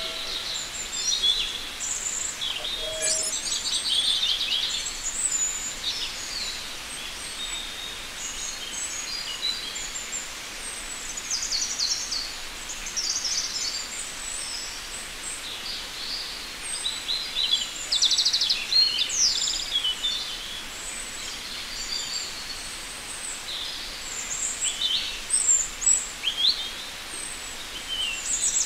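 Many short bird chirps and trills, often several overlapping, over a steady background hiss.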